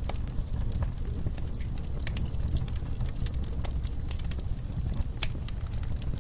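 Wood fire burning in a fireplace: a steady low rumble with frequent irregular crackles and sharp pops, a louder pop about five seconds in.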